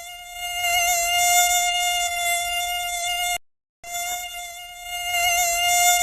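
A mosquito's wings whining in flight: one steady, high buzz that wavers slightly. It cuts off about three and a half seconds in and starts again half a second later.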